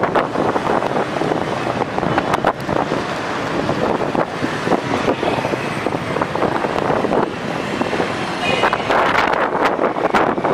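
Strong dust-storm wind blowing in gusts and buffeting the microphone, a loud rushing noise broken by frequent short thumps.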